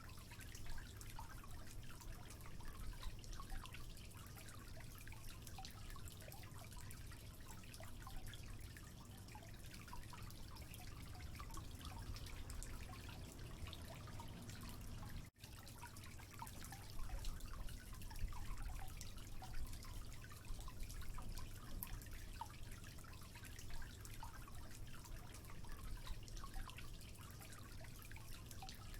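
Water trickling with many small drips and splashes, steady throughout, broken by a momentary dropout about halfway through.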